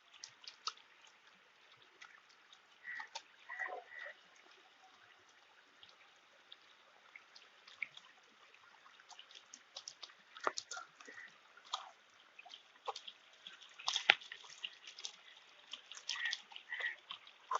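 Hybrid magur catfish feeding at the water's surface: irregular small splashes, drips and slurping clicks, coming in clusters.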